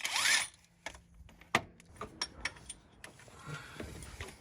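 A few sharp, irregular metallic clicks and taps from hand tools working on an engine-mount bolt, the loudest about a second and a half in.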